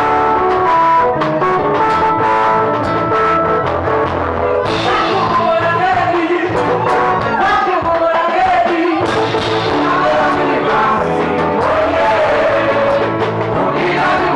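Live music from an acoustic stage performance: instruments play steady notes, and a singer's voice comes in about five seconds in and carries on over the accompaniment.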